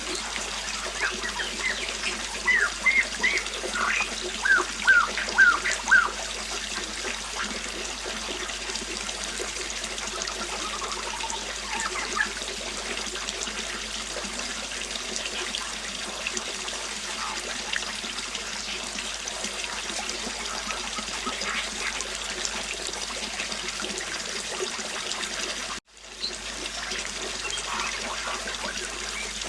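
River water flowing steadily, with birds chirping: a quick run of short, falling chirps a couple of seconds in and a few fainter calls later. Near the end the sound cuts out for an instant and comes back.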